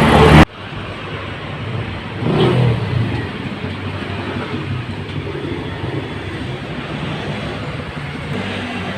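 Car engine running, loud for the first half second and then cut off abruptly, followed by a quieter steady engine hum with a brief swell a couple of seconds in.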